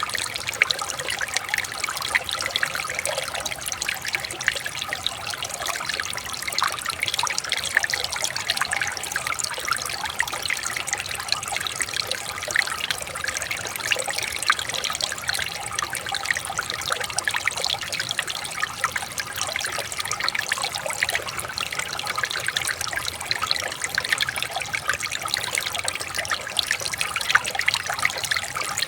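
Shallow river water running and trickling over stones, a steady close splashing and bubbling with no pauses.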